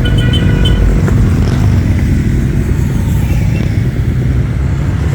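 Motorcycle engines running steadily in a group ride, a loud low rumble.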